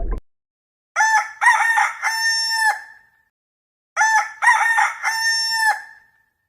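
Rooster crowing twice, the same multi-note cock-a-doodle-doo repeated: two or three short notes and a longer held final note, each crow about two seconds long.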